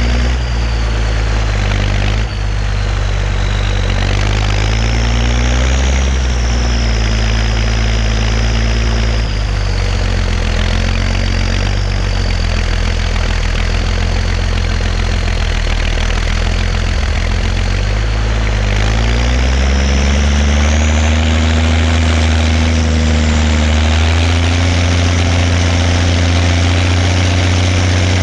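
Zetor 16145 tractor's six-cylinder diesel engine running steadily, with a high whistle that rises and falls above the engine note. About two-thirds of the way through the revs climb and then hold at the higher speed.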